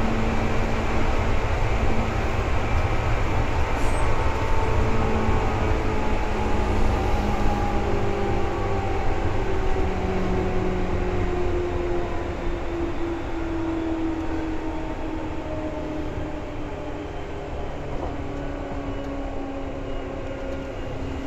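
Seibu 2000 series electric commuter train running, heard from inside a car: a steady rumble of the wheels on the rails with motor whine. The whine slowly falls in pitch as the train slows, and the sound grows gradually quieter in the second half.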